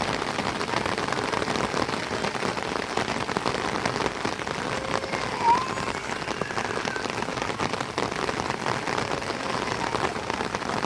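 Steady rain falling on a surface, a dense patter of drops, with one short high squeak about halfway through.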